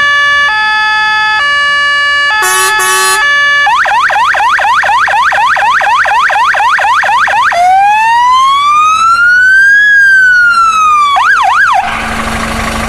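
Fire engine's electronic siren cycling through its tones. First a two-tone hi-lo, then a brief warbling burst and a fast yelp of about four sweeps a second. Next comes one slow wail rising and falling, then a quick yelp, ending in a steady low tone with a rushing noise in the last second.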